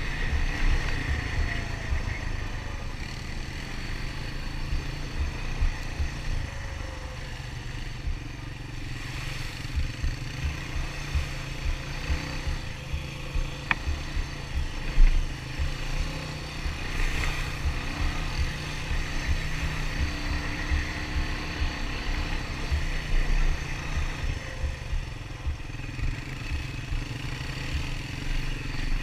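Honda ATV engine running steadily while riding a rough trail, with uneven low thumping and a sharp knock about halfway through.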